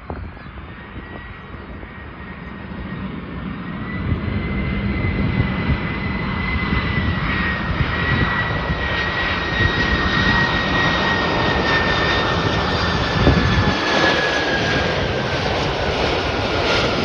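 Four-engine Boeing 747-400 freighter's jet engines on approach, growing louder over the first few seconds and then running steadily. A high fan whine sits over the roar and drops slightly in pitch near the end as the aircraft passes.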